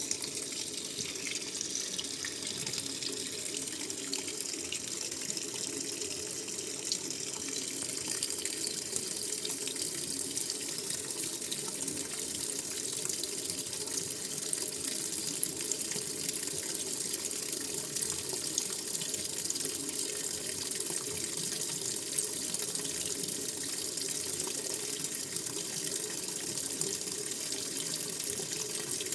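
Washing machine filling with water at the start of a wash cycle: a steady rush of running water that starts suddenly and holds evenly.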